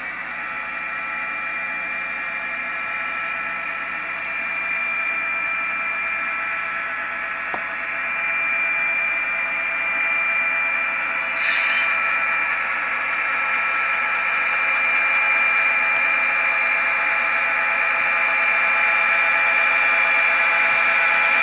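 Model SD40-2 diesel locomotive's DCC sound decoder playing EMD diesel engine sound through its small onboard speaker as the model runs, getting gradually louder, with a steady high whine and a short hiss about halfway through.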